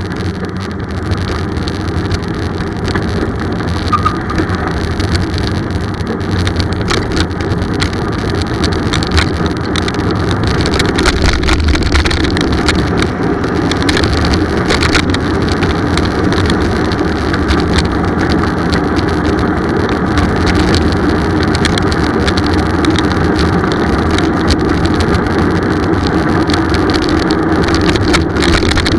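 Steady wind and road noise from riding a bicycle, with scattered small clicks and rattles; it grows louder about ten seconds in and stays there.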